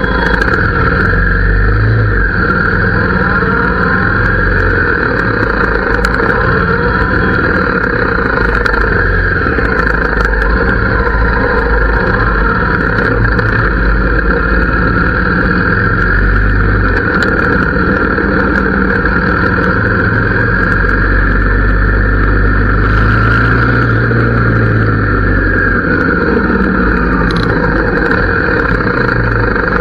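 Harley-Davidson V-twin motorcycle engine and exhaust running continuously, the engine note swelling and easing now and then.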